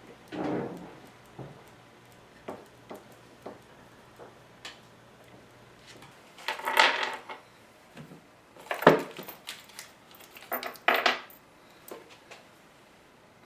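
Hard objects being handled and set down: scattered clicks and knocks, with louder bouts of clatter about halfway through and again near the end.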